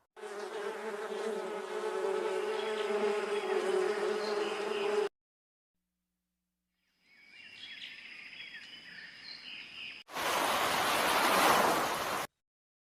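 Insect buzzing steadily for about five seconds, then cut off. After a pause come fainter high chirps, and then a loud burst of rushing noise for about two seconds that stops abruptly.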